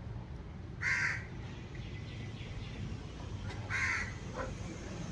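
A crow cawing twice, about a second in and again near the end, over a steady low background rumble.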